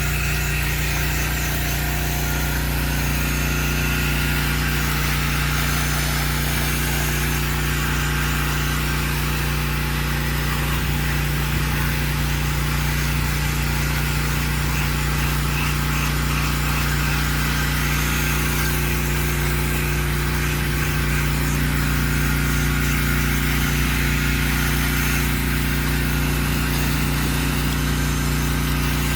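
Truck-mounted pressure washer engine running steadily at a constant speed, with a steady hiss above it.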